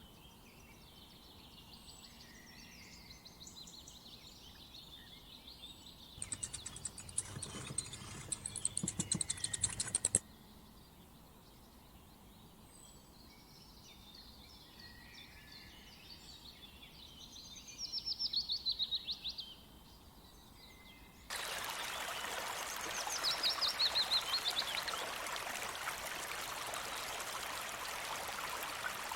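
Birds singing and calling, with a rapid rattling trill lasting about four seconds early on. About two-thirds of the way in, the sound changes abruptly to birdsong over the steady rush of running water.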